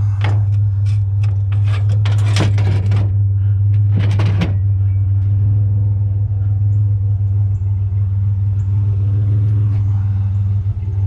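Metal bed frames clanking and rattling several times in the first few seconds as they are loaded into a pickup bed, over the steady low hum of the idling truck engine, which runs on alone afterwards.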